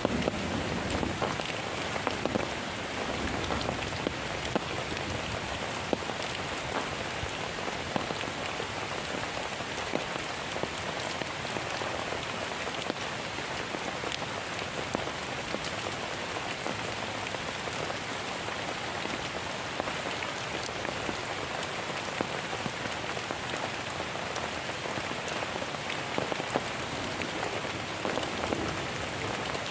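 Heavy rain falling steadily, with many separate drops clicking as they strike close by.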